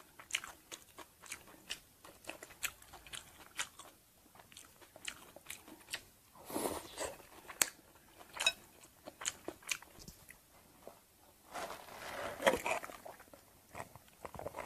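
Close-miked chewing and crunching of banh chhev, the crispy Cambodian crêpe, with fresh greens: a run of short crisp crunches, with two longer, louder stretches of chewing about six and a half and twelve seconds in.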